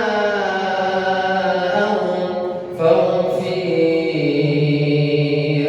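A single male voice reciting the Quran in a melodic, chanted style, holding long ornamented notes. About three seconds in the voice breaks off briefly and comes back on a lower note.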